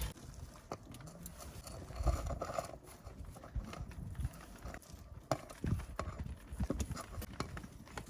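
Eating sounds: chewing, with scattered clicks and light knocks of a utensil on the cookware.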